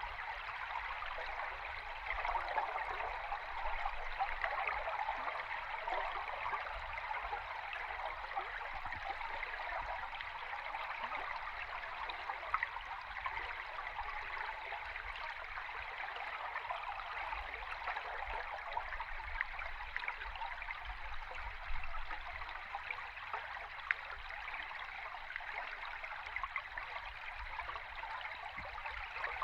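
River stream recorded underwater: a steady rush of flowing water, thick with fine crackling and a faint low rumble.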